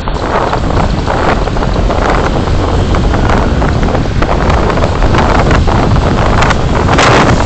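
Wind buffeting a dash camera's microphone, mixed with the road and engine noise of a moving vehicle, swelling in gusts and loudest near the end.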